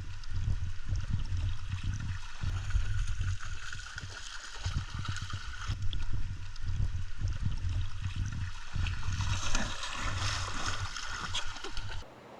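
Running water of a stream, flowing steadily with an uneven low rumble, cutting off abruptly near the end.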